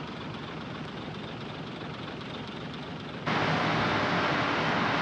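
Heavy earthmoving machinery running, a steady engine noise that jumps abruptly louder a little over three seconds in.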